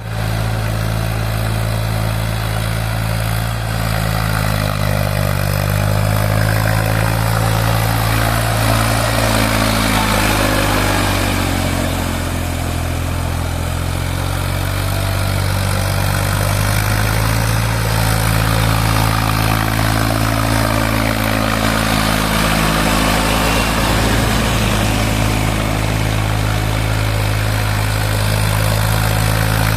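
Eicher 480 tractor's diesel engine running steadily under load while puddling a wet paddy field, its pitch sagging and recovering a few times as the load changes.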